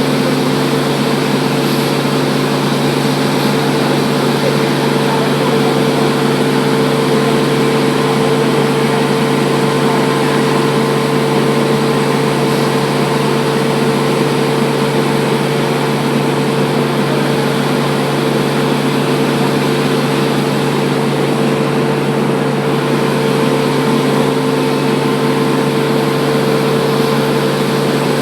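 Wide belt sander running steadily: an even machine hum with several fixed tones over a constant rushing noise, unchanging throughout.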